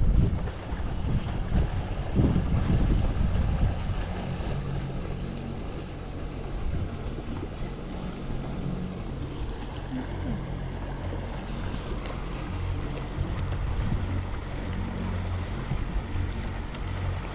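Wind buffeting the microphone in gusts, strongest in the first few seconds, over a low steady hum.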